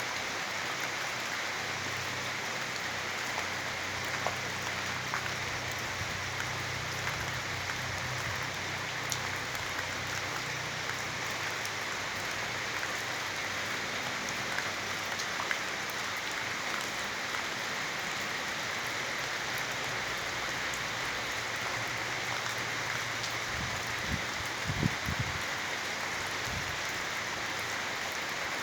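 Steady rain falling, with scattered drops ticking on a surface. A low hum sits under it in the first half, and a few low thumps come near the end.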